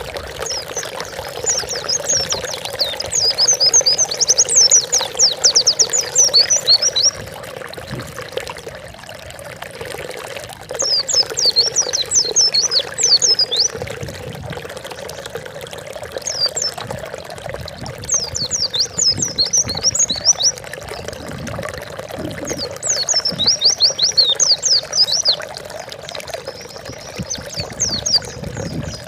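White-eye (pleci) singing in repeated bouts of rapid, high chirping notes, each bout lasting a few seconds, over steady running water.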